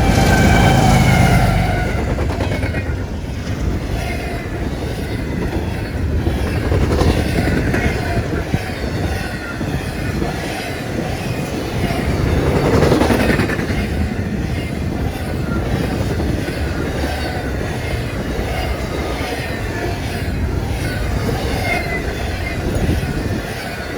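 Freight train cars rolling past: a steady rumble of steel wheels with regular clicks over the rail joints and a wavering squeal from the wheels, swelling louder near the start and again about halfway through.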